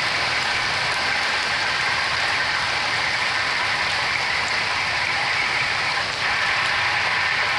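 Small hail mixed with rain pelting down steadily, a dense hiss of countless small impacts, dipping slightly about six seconds in.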